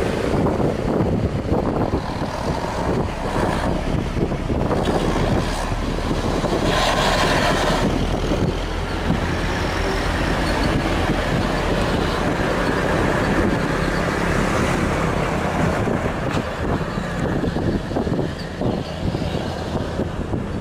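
Heavy truck's diesel engine running steadily under load, with a brief burst of noise about seven seconds in.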